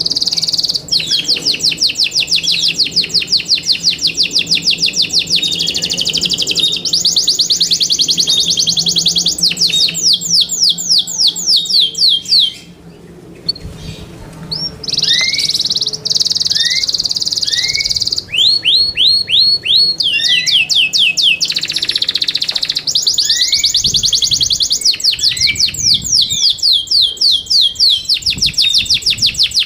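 Yorkshire canary singing: long, fast trills and runs of rapidly repeated sweeping high notes, with a short break a little before halfway.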